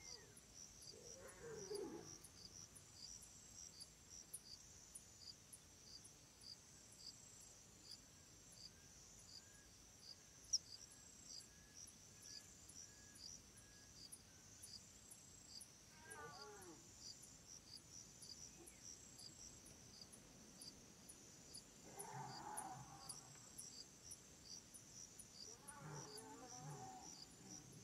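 Faint forest ambience: insects chirping in a steady, evenly pulsing chorus. A few soft animal calls with wavering pitch come about a second in, around the middle and twice near the end.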